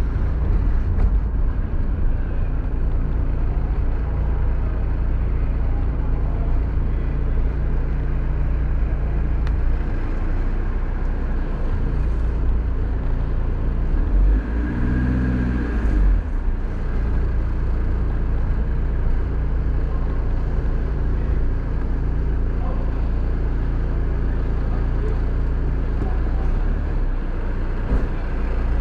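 Car engine and tyres heard from inside the cabin as the car creeps forward at low speed, a steady low hum throughout. About halfway through, a brief louder pitched hum rises over it.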